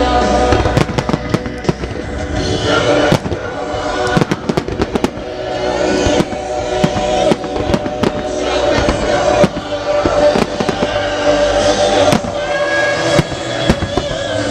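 Fireworks display: many sharp shell bursts and crackling reports, dozens of bangs through the whole stretch, over musical-theatre music played loud through the show's sound system.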